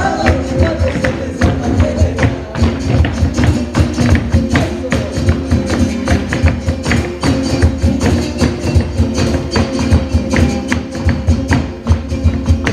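Live band playing an instrumental passage with a steady, busy percussion beat under sustained melody.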